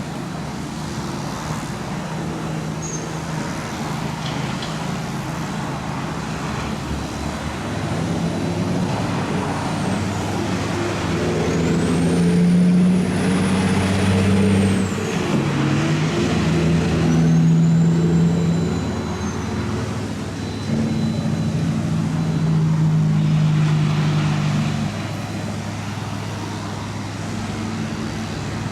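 Large excavator's diesel engine running under load, its pitch stepping up and down as the hydraulics work, with three high-pitched squeals that rise and fall, the longest about 12 seconds in.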